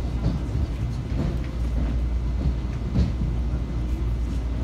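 Metro-North M7 electric railcar heard from inside the passenger car while running: a steady low rumble from the wheels and track, with scattered short knocks, the sharpest about three seconds in.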